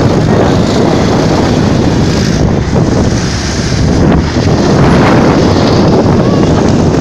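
Loud, steady wind noise rushing and buffeting on the microphone.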